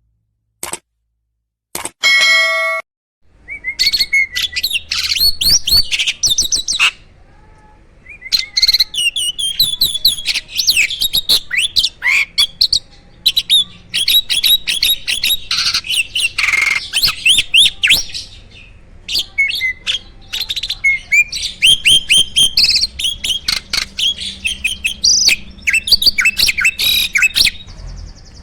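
Starling (jalak) singing hard in long, loud runs of rapid chirps, whistles and trills, a varied song packed with fill-in phrases, broken by short pauses. It opens with a few clicks and a short buzzing tone before the song starts.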